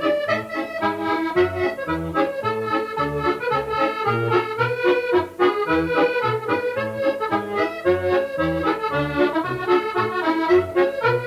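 Accordion playing a medley tune: a melody of short notes over a steady, alternating bass accompaniment.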